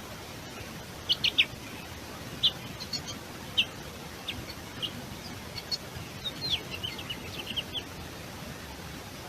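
Small birds giving short, sharp chirps: a quick run of three about a second in, single chirps scattered after, and a denser burst of calls near the end, over a steady background hiss.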